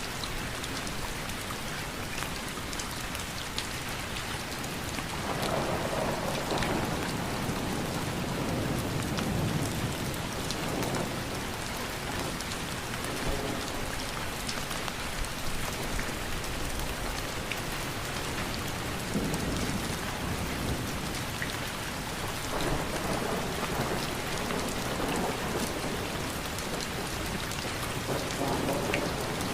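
Steady rain falling, with low rolling rumbles of thunder swelling up several times.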